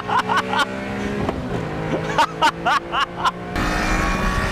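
Small three-cylinder car engine running at full throttle, its note held mostly steady. Over it come two quick runs of short, sharp, high chirps. About three and a half seconds in, a louder rush of wind noise takes over.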